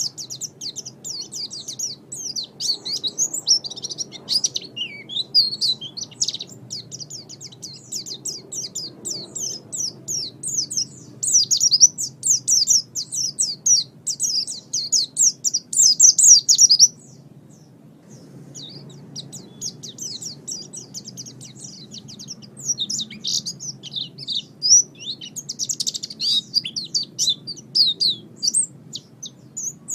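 Songbird singing a fast, continuous run of high, sharp chirps and trills. It breaks off for about a second around seventeen seconds in, then resumes.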